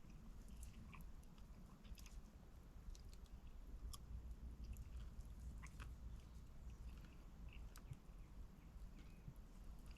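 Faint, irregular small clicks and crackles over a low, steady rumble.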